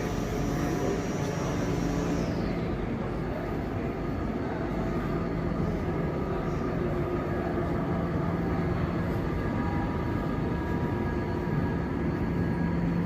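Frecciarossa 1000 high-speed electric train: a steady hum with several faint steady whining tones.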